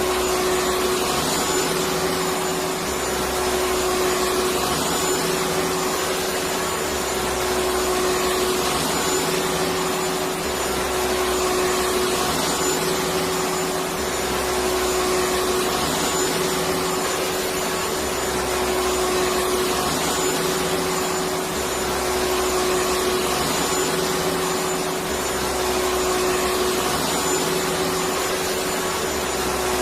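Vacuum cleaner running continuously: a steady motor whine over a rushing airflow noise, with a low rumble that comes and goes about every two seconds.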